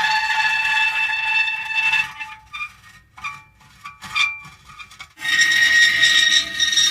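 Metal creaking: a drawn-out, high squeal that breaks into short, separate squeaks around the middle, then settles back into a long squeal near the end.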